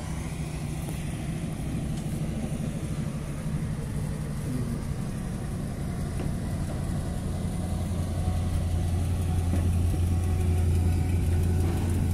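Vintage railway crew speeder running along the track: a steady engine hum from its chain-driven drivetrain. About halfway through, the note drops lower and grows louder.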